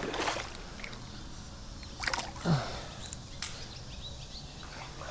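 Creek water sloshing and splashing in two short bursts about two seconds apart, as a caught smallmouth bass is handled in the water and let go.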